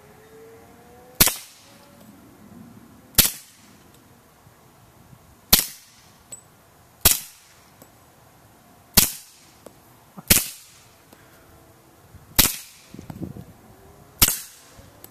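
Sig Sauer 1911 Scorpion Carry pistol in .45 firing eight shots through a SilencerCo Osprey 45 suppressor, about one shot every two seconds.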